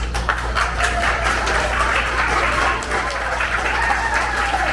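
Theater audience applauding, many hands clapping, starting at once, over a steady low hum.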